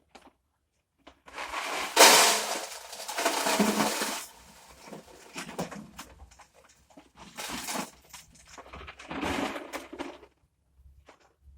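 Irregular bursts of clattering and scraping as items are handled and moved about, the loudest starting abruptly about two seconds in, with shorter bursts later.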